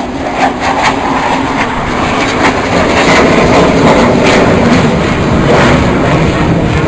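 Aircraft flying past, its engine noise loud and growing steadily louder.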